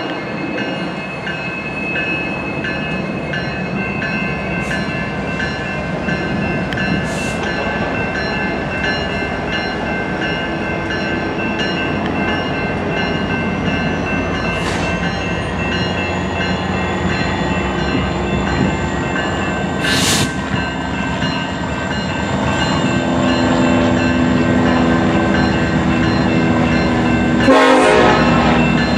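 BNSF diesel freight locomotives approaching, their engines growing louder over the last several seconds, with a bell dinging steadily.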